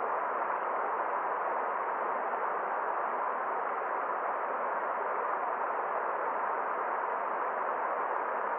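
Forest stream flowing: a steady, even rush of water that does not change.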